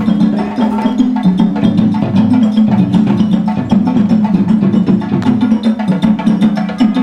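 Group of timbal hand drums playing together in a fast, dense rhythm, the deep ringing drum tones under a steady stream of sharp slaps.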